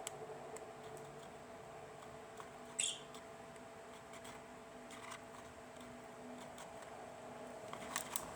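Lovebird giving one short, high chirp about three seconds in, over a steady low hum, with a few faint clicks near the end.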